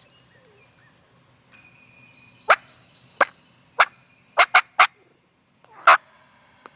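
Wild turkey clucking: seven short, sharp notes, irregularly spaced, with three in quick succession near the middle.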